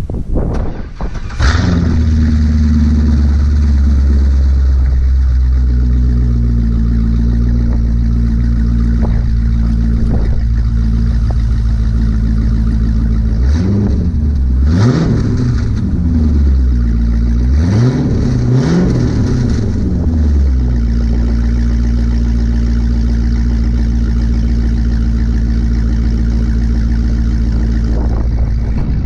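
LS2 6.0-litre V8 of a C6 Corvette running with its mufflers deleted, open pipes dumping under the car: a steady, deep idle with a short change in sound about a second and a half in. It is revved twice in the middle, pitch climbing and falling back each time, then settles back to idle.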